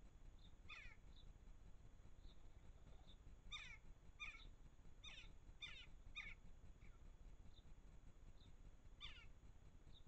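Faint bird calls: about seven short, falling calls, most of them bunched in the middle, with fainter high peeps in between.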